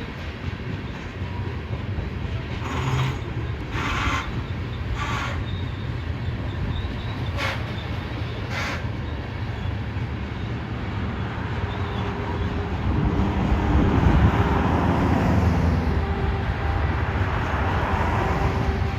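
Train rolling by with a steady low rumble, and five short bursts of noise between about three and nine seconds in. The sound grows louder from about twelve seconds in, with steady tones added.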